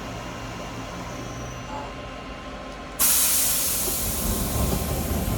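Mori Seiki Frontier L2 CNC lathe running with a steady hum, then about three seconds in a loud spraying hiss starts suddenly and carries on, with a low rumble under it.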